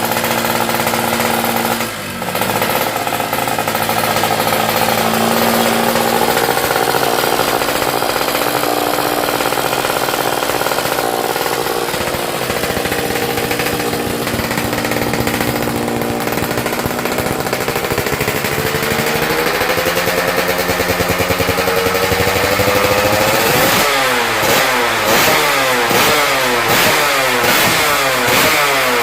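Two-stroke road-race motorcycle engine running, its pitch climbing slowly, then revved up and down in quick blips about once a second near the end.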